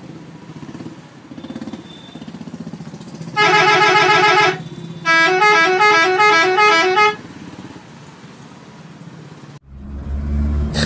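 Electronic vehicle-horn sound effects over a steady low engine drone: a warbling honk lasting about a second, then about two seconds of rapidly alternating horn notes. Near the end the sound cuts abruptly to a louder low rumble.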